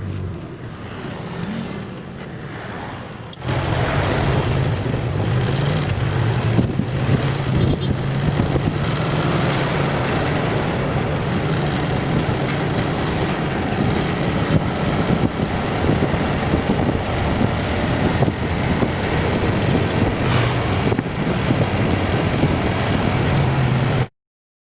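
Motorcycle riding along, its engine giving a steady low hum under heavy wind noise on the microphone. The noise jumps up suddenly about three seconds in and cuts off abruptly near the end.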